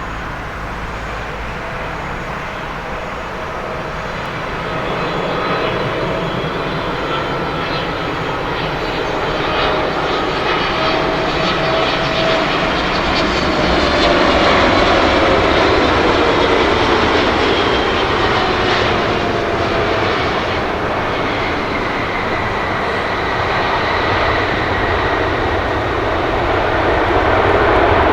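Boeing 777-300ER's twin GE90-115B turbofan engines on landing approach. The jet noise grows louder as the airliner nears and passes, with whining engine tones that fall in pitch as it goes by.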